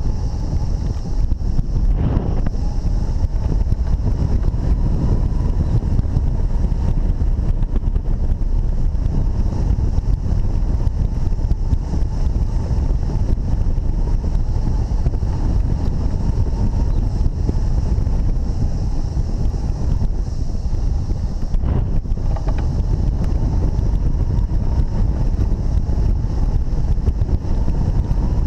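Strong wind rushing and buffeting over the microphone: a steady, loud, low rumble that barely changes.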